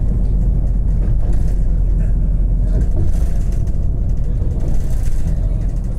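Steady low rumble of a passenger train running on the rails, heard from inside the coach.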